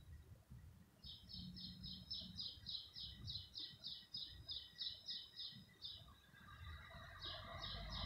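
A small songbird singing a fast, even run of repeated high notes, about four a second, for several seconds, then a shorter run near the end, over a faint low rumble.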